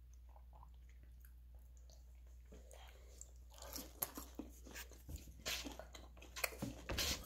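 A person chewing food close to the microphone, with irregular clicks and scrapes of a plastic fork in a takeout container; it starts about halfway in, after a stretch of faint low hum.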